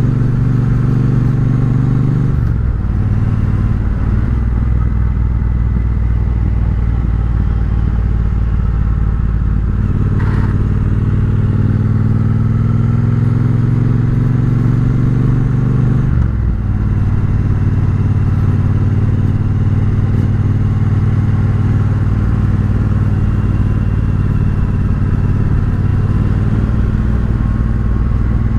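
Triumph Bobber's 1200 cc parallel-twin engine running through a Vance & Hines exhaust while riding. The engine note shifts about two seconds in, climbs steadily from about ten seconds in as the bike speeds up, then drops suddenly near sixteen seconds, as on a gear change.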